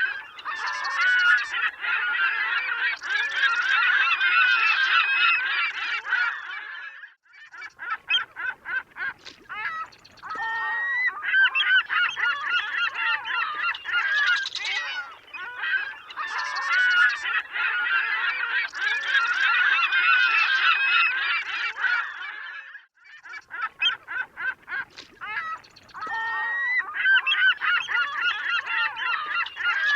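A flock of gulls calling, many overlapping cries in a continuous chorus. Twice, about 7 s and 23 s in, it thins for a few seconds to scattered single calls before the crowd of calls builds again.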